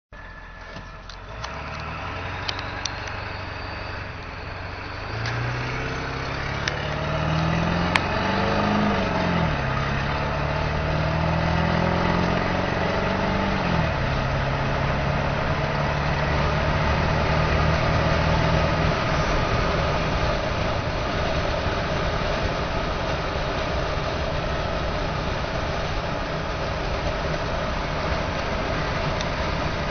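A 1997 Ford F-250's 7.3L PowerStroke V8 turbo diesel pulls hard from low speed, its pitch climbing and then dropping twice at the upshifts, about a third and halfway in. It then runs on steadily at speed under a rising rush of road and wind noise.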